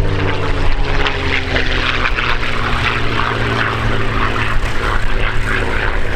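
P-51D Mustang's V12 Merlin engine and propeller passing overhead, the engine note falling in pitch over the first two seconds as it goes by, then a steady drone.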